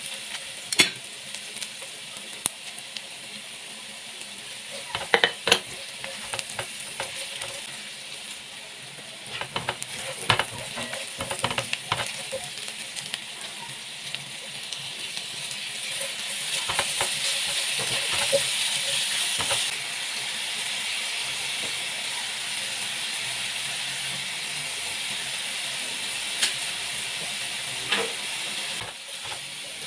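Sliced onions and garlic sizzling in hot oil in a stainless steel frying pan, stirred with a spatula that clicks and scrapes against the pan now and then. The sizzle swells for a few seconds around the middle, just after grated apple goes into the pan.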